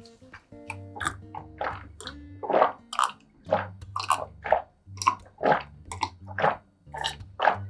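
Close-miked wet chewing and biting of food, in quick repeated strokes about two or three times a second, over soft background music.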